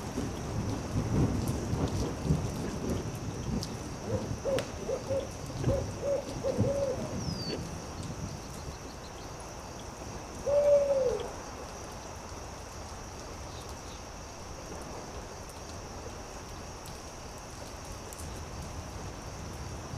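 An owl hooting: a quick run of about seven short hoots, then a single louder, longer hoot that falls in pitch about ten seconds in. Beneath it are a low rumble that fades out in the first half, a steady high hiss and sparse faint crackles.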